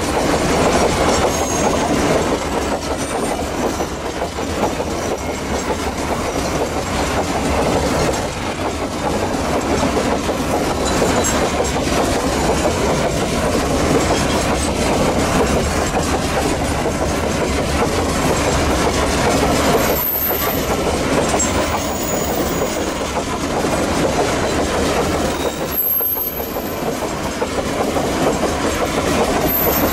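Empty coal hopper wagons of a long Babaranjang coal train rolling past on a curve, their wheels clattering steadily over the rails. Brief high-pitched wheel-flange squeals come from the curve about two-thirds of the way through and again near the end.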